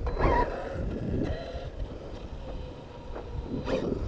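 Brushless electric motor of an Arrma Notorious 6S BLX radio-controlled truck whining as it is driven, its pitch wavering and gliding with the throttle. It rises briefly near the start and again near the end.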